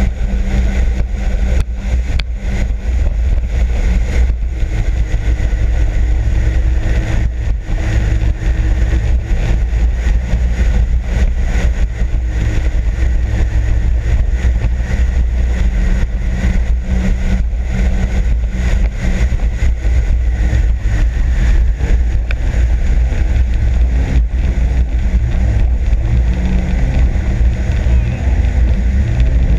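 Sea-Doo RXP-X 260 jet ski running steadily under way, its engine drone mixed with constant rushing wind and water noise.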